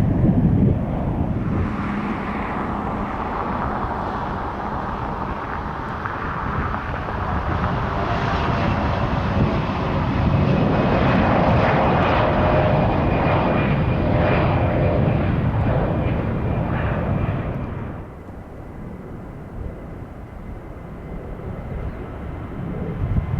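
Jet airliner's engines at takeoff thrust: a loud rush with whining fan tones as the aircraft departs. The sound drops off suddenly near the end, leaving a quieter low rumble and wind.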